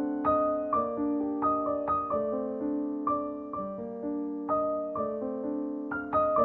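Background piano music: a gentle melody of single notes and chords struck about twice a second.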